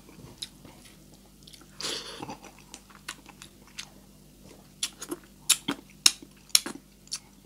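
Close-up mouth sounds of a person eating sardines and rice by hand: wet chewing and smacking. There is a longer breathy burst about two seconds in and a run of sharp, loud smacks in the second half.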